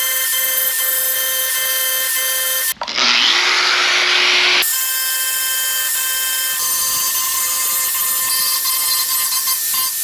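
Power tool running with a steady whine. About three seconds in it briefly changes to a harsher hiss with a rising tone, then the whine returns.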